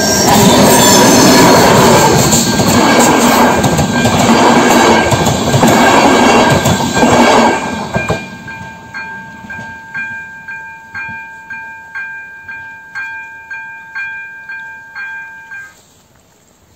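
A train passes the level crossing with a loud rumble and wheel clatter for about the first eight seconds. Then the crossing's AŽD electronic bell is heard alone, a ringing tone pulsing about twice a second. It cuts off suddenly near the end as the crossing switches off after the train has cleared.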